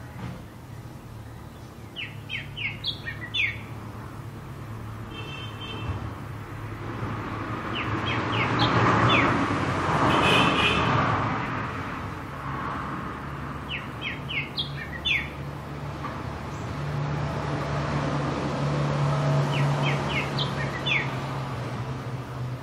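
Backyard ambience: a bird calling a quick burst of sharp chirps, repeated about every five to six seconds, over a steady low hum and a traffic rush that swells to a peak about halfway through.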